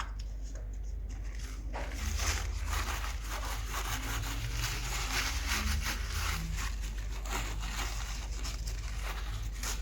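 The plastic magnetic pedal-assist sensor at an e-bike's bottom bracket being cleaned with degreaser: a continuous scratchy rubbing and rustling noise that starts about two seconds in.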